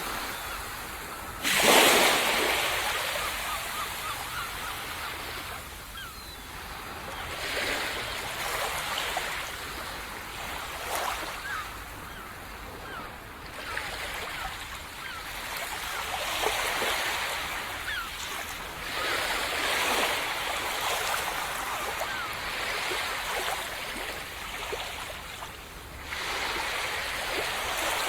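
Small ocean waves breaking on a sandy beach and washing back, one sharp break about a second and a half in, then gentler swells every few seconds.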